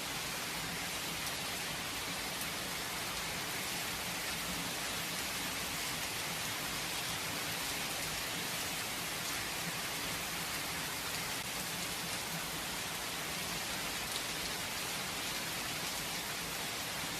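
Steady rain falling without thunder, an even hiss of drops on surfaces.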